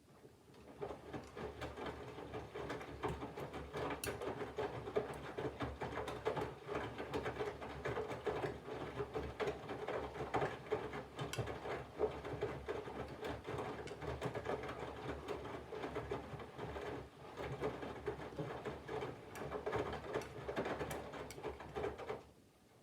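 Candy GVF4 137 LWHC/2 front-loading washing machine in its main wash. The drum turns and tumbles the wet laundry with a steady motor hum and a patter of sloshing water and falling clothes. It starts about half a second in and stops just before the end, one turn of the wash's tumble-and-pause rhythm.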